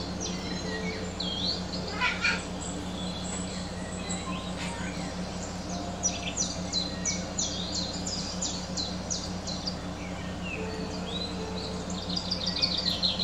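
Small bird chirping: scattered high chirps, then a quick run of repeated chirps in the middle and another near the end, over a steady low hum.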